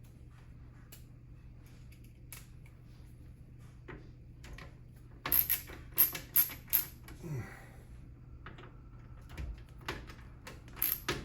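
A small PC case being unpacked and handled: scattered sharp clicks and knocks of its plastic and metal parts, with a quick run of clicks about five to seven seconds in and more near the end, over a steady low hum.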